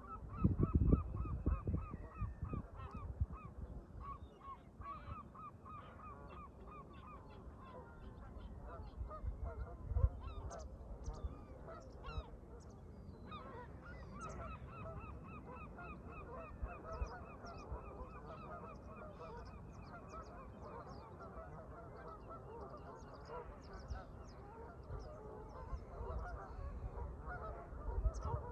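A flock of Canada geese honking continuously in long runs of rapid, repeated calls. Gusts of wind rumble on the microphone about a second in, around the middle and near the end.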